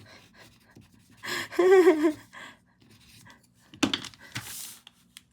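A woman's wordless, drawn-out wavering groan about a second in, followed by a sharp knock and a short breathy exhale near the end.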